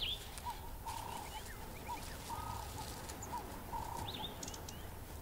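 Birds calling: short notes at a steady middle pitch repeating about twice a second, with a few higher chirps, over a faint outdoor hiss.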